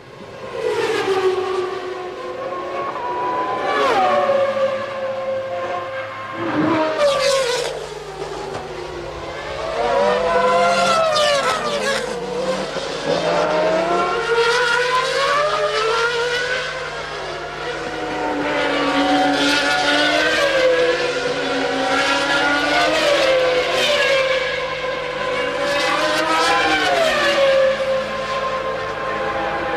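1995 Formula One cars' 3-litre racing engines at high revs, several at once, their pitch rising and falling through gear changes as cars pass and brake. There is a change in the background hum about seven seconds in.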